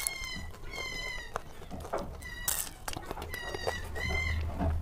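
Close-up chewing of a crisp fried kachori, with sharp crunching clicks. Over it come about four short, high-pitched squeaky chirps.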